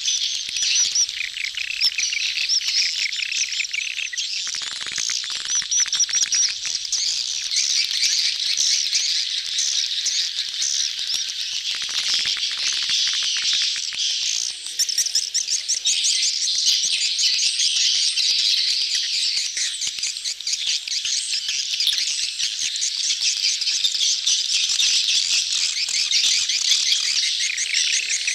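A dense colony of edible-nest swiftlets chirping and twittering without pause, many birds calling over one another in a busy high-pitched chatter. It is the crowded mating chatter of the colony, the kind of call used as a lure to draw swiftlets into a nesting house.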